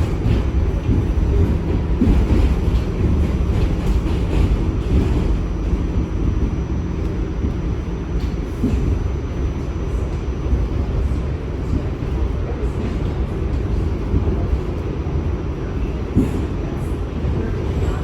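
New York City subway train running along the track: a steady, heavy low rumble with a few sharp clicks from the wheels over the rails.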